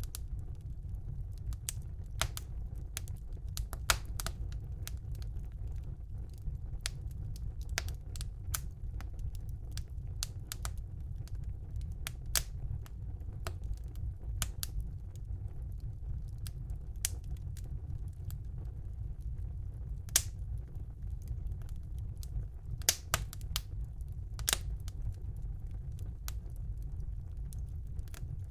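Wood fire burning in a fireplace: a steady low rumble of the flames with irregular crackles and sharp pops of the burning logs.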